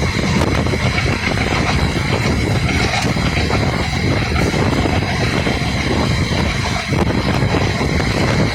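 Passenger train running at speed, heard from on board: a steady rumble of wheels on the rails with a faint, steady high whine over it.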